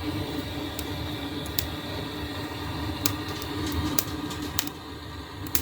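Wood fire crackling in a fireplace: scattered, irregular sharp pops over a steady low rumble.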